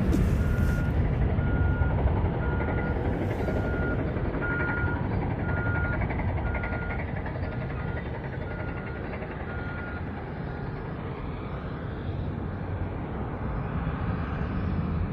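A vehicle's reversing alarm beeping about twice a second, stopping about ten seconds in, over a steady low engine rumble.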